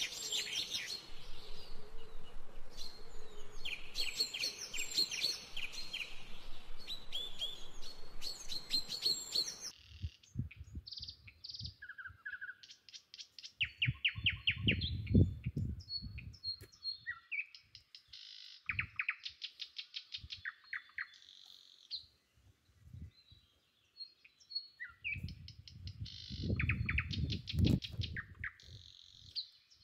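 Small birds chirping and trilling over and over, with many short high calls. Twice, around the middle and again near the end, a low rumbling noise rises under the birdsong for a few seconds.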